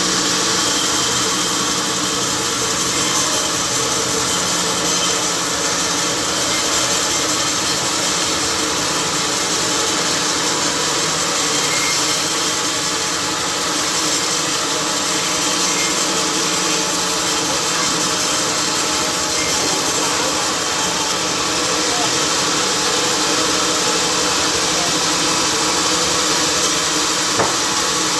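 Sawmill machinery running steadily: a loud, even machine noise that holds at the same level throughout, with a few faint steady tones in it.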